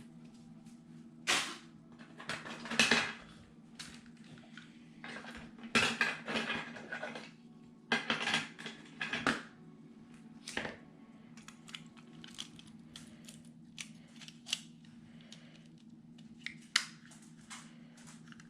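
Paper and craft pieces being handled and worked on a tabletop: irregular rustles and slides with light taps and clicks, over a steady low hum.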